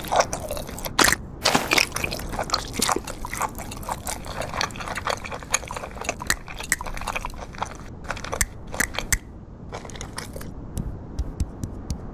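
Cartoon chewing and crunching sound effects of an animated seal eating: a dense, uneven run of crunches for about nine seconds, then a row of quick, even ticks near the end.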